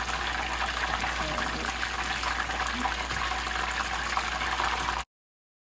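Batter-coated chicken wings deep frying in hot oil: a steady sizzling, bubbling crackle that cuts off abruptly about five seconds in.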